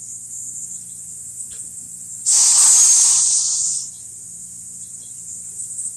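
A loud spraying hiss lasts about a second and a half, a couple of seconds in, over steady chirring of crickets and a faint low hum.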